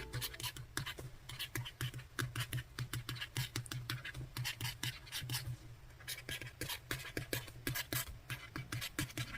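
Quick, irregular taps and scratches, several a second, of hands handling a tablet and its accessories, over a low steady hum.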